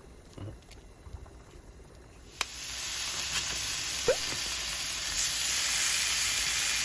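Food hitting a hot oiled pan with a click about two seconds in, then frying with a loud, steady sizzle.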